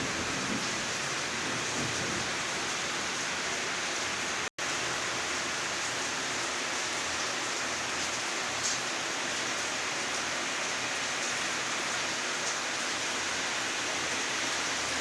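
Steady rain falling, an even hiss without let-up. It cuts out for an instant about a third of the way through.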